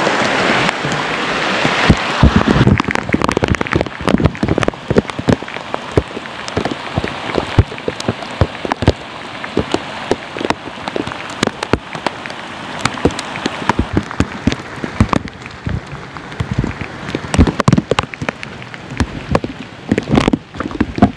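Heavy rain: a steady hiss with many sharp, irregular taps of drops striking close by, louder in the first couple of seconds.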